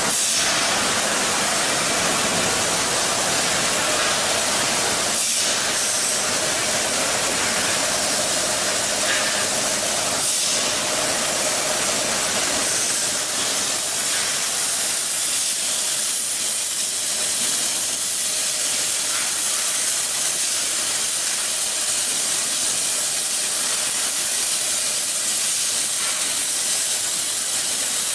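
A steady, loud hissing noise that barely changes.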